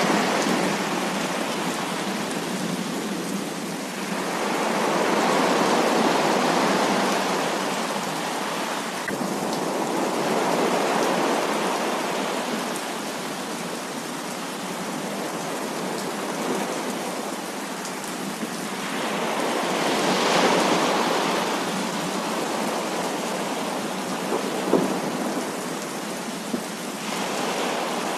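Heavy rain falling steadily, with thunder rumbling in slow swells that rise and fade several times, and one short sharp tick near the end.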